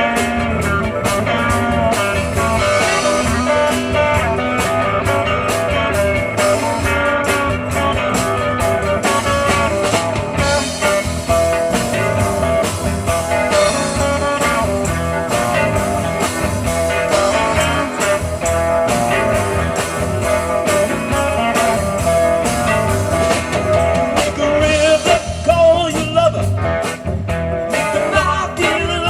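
A live rock band of electric guitars, bass, drums and keyboards playing a bluesy swamp-rock groove, with a guitar line over a steady beat.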